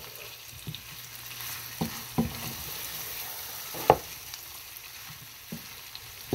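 Beef kala bhuna sizzling steadily in oil over low heat while a wooden spatula stirs it, scraping and knocking against the pan about half a dozen times, loudest about four seconds in.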